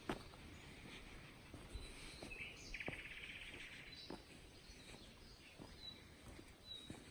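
Faint songbird calls: a rapid trill of about a second around three seconds in, and scattered short high chirps, over a quiet outdoor background.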